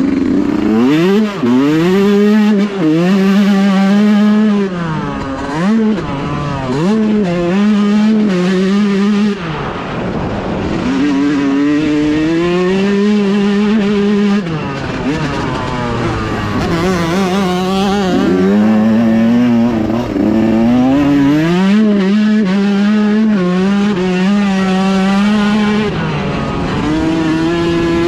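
Motocross dirt bike engine ridden hard on a track, its revs climbing and dropping repeatedly as the throttle is opened and shut through the corners and jumps.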